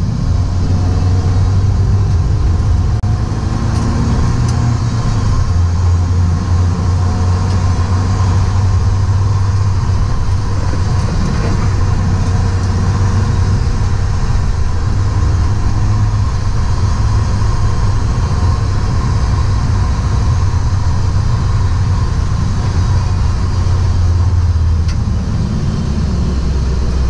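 BMW E36 Compact's engine pulling hard under load on a track lap, heard from inside the cabin along with tyre and road noise. The engine note rises and falls with the revs through the gears and drops to a lower note near the end as the car slows for a corner.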